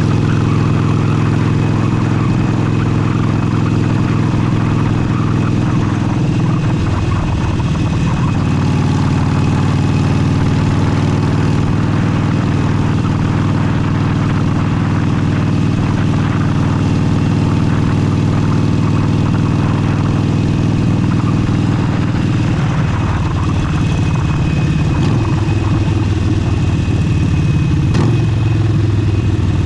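Harley-Davidson Forty-Eight's 1200 cc air-cooled V-twin running through an aftermarket exhaust at riding speed, its note shifting in pitch as it changes speed about 7 seconds in and again near the end, with a steady hiss from wind on the microphone.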